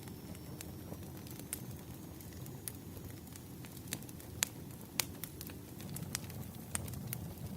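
Campfire crackling: a steady low rumble of burning wood with scattered sharp pops, the loudest two about four and a half and five seconds in.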